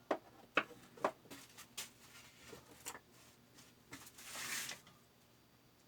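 Light, scattered clicks and taps of small parts being handled during maintenance of a fabric cutting machine's knife sharpener, followed by a brief rasping scrape about four seconds in.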